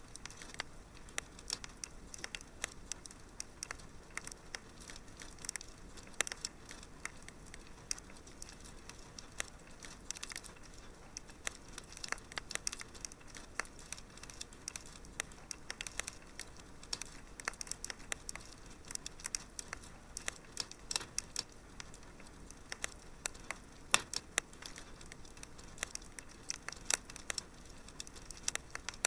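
Wood fire crackling in a fireplace: constant irregular pops and snaps over a soft hiss, with one louder pop about 24 seconds in.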